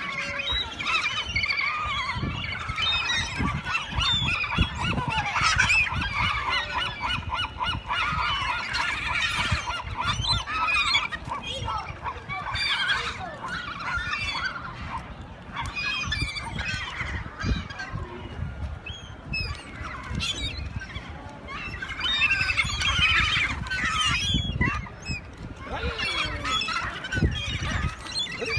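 A flock of gulls calling over one another: many short, overlapping squawks throughout.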